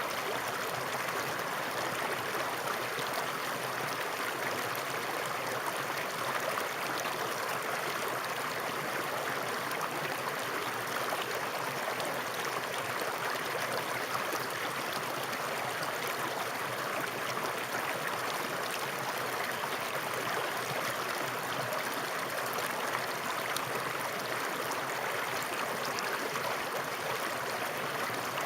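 Water flowing steadily over rocks in a stream, an even rushing and gurgling that does not change.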